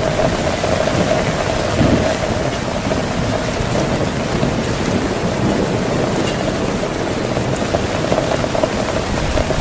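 Heavy rain falling steadily, with low thunder rumbling under it.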